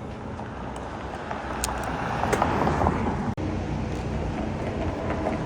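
City street traffic noise with a vehicle passing, swelling to its loudest about two and a half seconds in, over a steady low rumble; the sound cuts out for an instant a little after three seconds.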